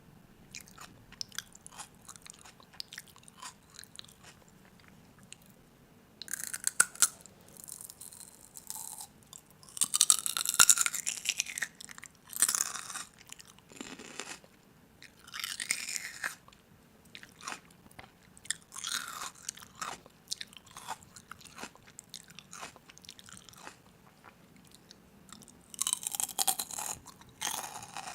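Crisp crunching of food, in bursts about a second long every few seconds with small clicks between.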